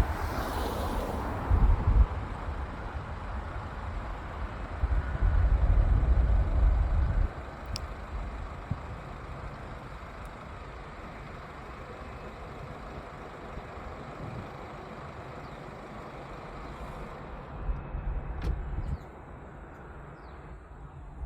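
Airplane engine noise during a takeoff: a steady hiss over a low rumble that surges loudly during the first seven seconds, then settles into a quieter steady noise with another brief surge near the end.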